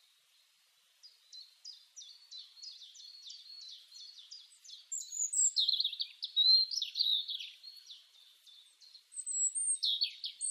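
Songbird singing: a run of quick falling chirps, about three or four a second, grows into a louder, busier warbling phrase from about five seconds in. After a short pause near the end, another phrase follows.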